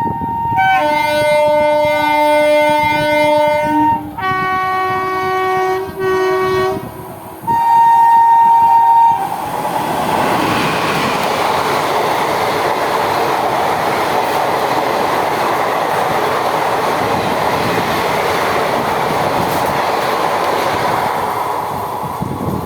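Indian Railways locomotive's multi-tone air horn sounding four blasts, one long and three shorter. Then the steady noise of the train running past, wheels clattering on the rails, easing off near the end.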